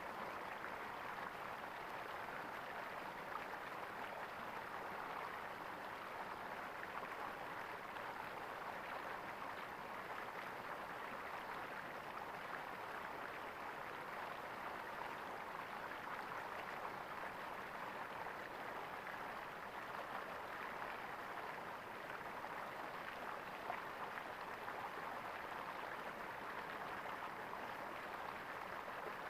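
Stream water gurgling and splashing steadily over stones, with no pause or change.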